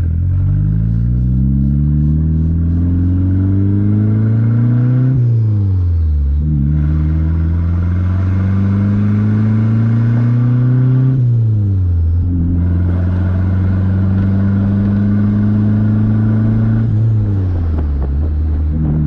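Dodge Neon SRT-4's turbocharged 2.4-litre four-cylinder engine pulling the car up through the gears. Its pitch climbs steadily, then drops sharply at each of three gear changes.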